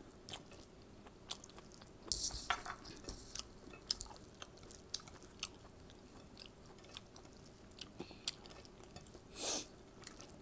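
Close-up chewing and mouth sounds of a person eating rice and fish by hand: scattered wet smacks and clicks, with a short louder rush of noise about two seconds in and another near the end, over a faint steady hum.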